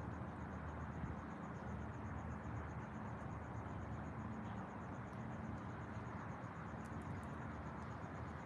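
An insect, cricket-like, chirping as a rapid, even, high-pitched pulsing that runs on steadily, over a steady low rumbling background noise.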